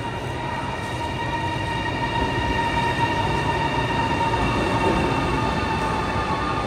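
Passenger train running along the track: a steady rumble of wheels on rails with a steady high whine over it.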